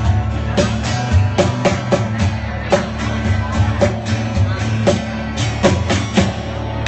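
Live rock band playing the instrumental ending of a song, electric guitar over a drum kit keeping a steady beat.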